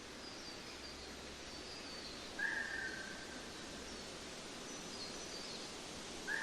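Outdoor ambience: a steady hiss with faint high bird chirps, and a louder whistled bird call, one short note dipping slightly in pitch, heard about two and a half seconds in and again near the end.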